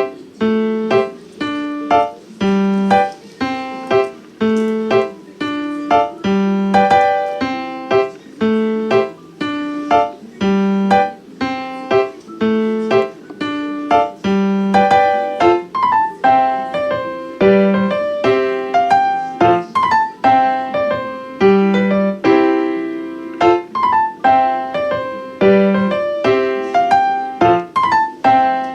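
Background piano music: a steady, repeating melody of struck notes over a recurring bass figure.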